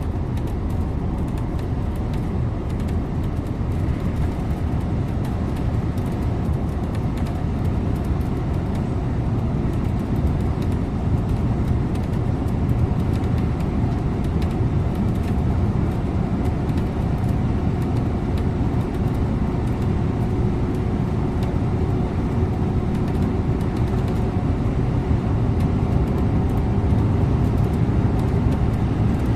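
Scania InterLink bus driving at a steady pace: constant engine drone and tyre and road rumble, with a faint engine tone that rises slowly about two-thirds of the way through.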